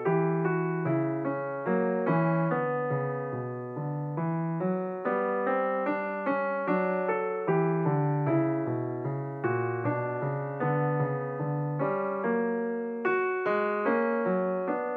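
Solo piano music: a gentle melody of struck notes, about two a second, each one fading away.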